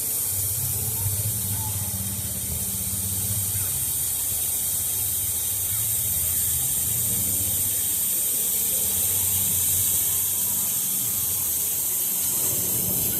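Steady hiss of rushing and spraying water from the water park's slides and pools, with a faint low hum underneath.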